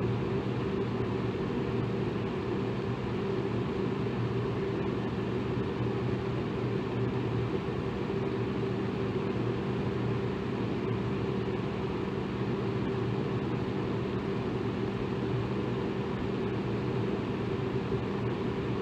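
Electric fan running steadily: an even rush of air with a low motor hum.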